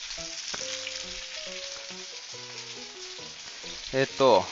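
Gyoza sizzling as they pan-fry in oil in a frying pan, a steady crackling hiss. Near the end a brief loud sound sweeps sharply down in pitch.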